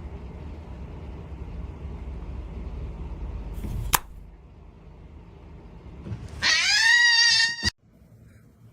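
A cat's single drawn-out meow, loud and slightly rising in pitch, about six and a half seconds in, cut off abruptly. Before it, a low steady rumble for the first few seconds.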